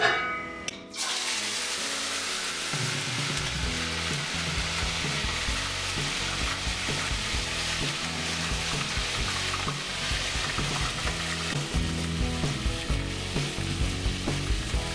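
Chopped beef sizzling in hot vegetable oil in a plov pot, starting suddenly about a second in as the meat goes in, then frying steadily while it is stirred with a metal spoon.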